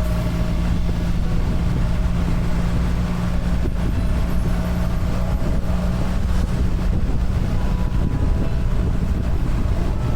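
BMW R1300 GS boxer-twin engine running at a steady pace, with a constant low hum and road noise.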